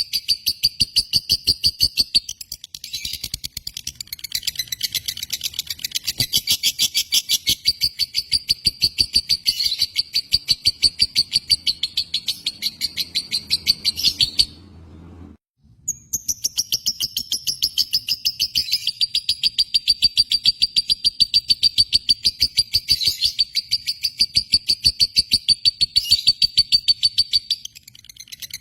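Lovebird chirping in long, fast runs of high, rapid chirps, many a second. The chirping breaks off suddenly about halfway through, then starts again after a short silence.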